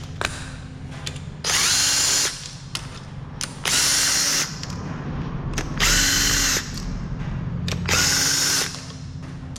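A power tool runs in four short bursts of under a second each, a couple of seconds apart, spinning out bolts on a Ford 5.0 Coyote V8. A steady low hum runs underneath.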